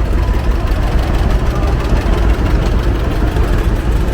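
John Deere Model A's two-cylinder engine running steadily as the tractor drives slowly by, a low-pitched, even engine sound.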